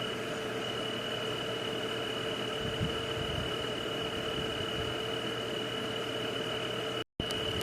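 Steady night chorus of insects and frogs, a constant high drone over a lower hum and hiss. It cuts out completely for an instant near the end, then resumes.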